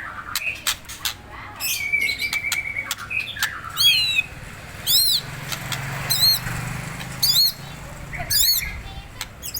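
White-rumped shama (murai batu) calling while being provoked: a run of sharp clicks and whistled notes, then five high, wavering notes about once a second in the second half.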